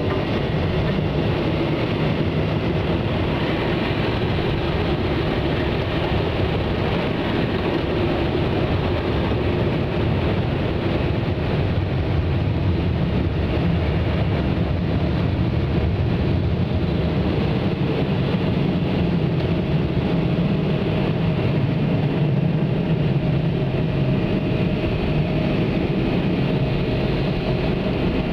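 Automatic car wash machinery running steadily, heard from inside the car's cabin: a loud, even rush with a faint steady hum.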